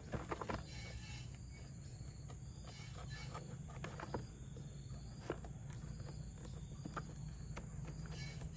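Faint, scattered clicks and light taps from toy parts and packaging being handled, over a steady low hum.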